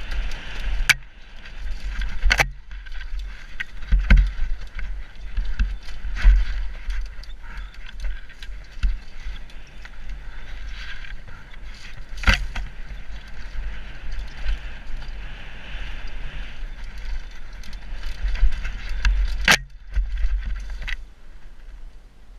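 Downhill mountain bike descending a rough forest trail: wind rumble on the microphone and tyre and frame rattle, with sharp knocks several times as the bike hits bumps.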